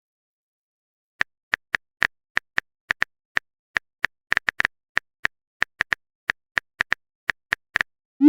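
Phone keyboard typing sound effect: a string of short, light clicks at an uneven pace, like keys tapped one by one, ending in a quick rising pop.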